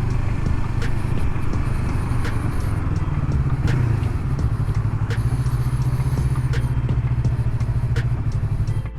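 Yamaha MT-03's parallel-twin engine running steadily at riding speed, its pitch wavering only slightly, heard from the rider's helmet.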